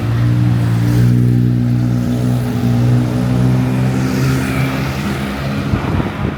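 A motor vehicle's engine running close by with a steady low hum, fading away about five seconds in, over street traffic noise.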